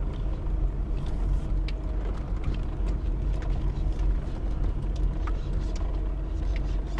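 Car driving: a steady low engine and road rumble, with a few faint ticks.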